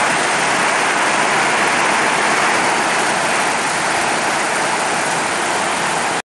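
Torrential squall rain driven by strong wind, a loud, steady rush of noise that cuts off suddenly near the end.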